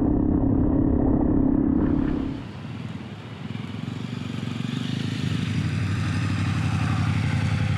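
Honda CRF250L motorcycle engine running while riding. About two seconds in the sound cuts to a quieter engine note that builds up again, with rushing wind noise.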